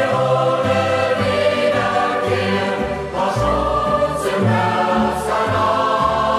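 Music: a youth choir singing a German hiking song with instrumental accompaniment over a steady bass line.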